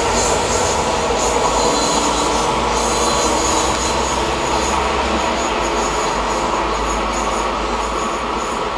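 PKP EN71 electric multiple unit departing and running away along the track: a steady rumble and hiss of wheels on rails, with a thin high squeal from the wheels. It grows slightly fainter toward the end as the train recedes.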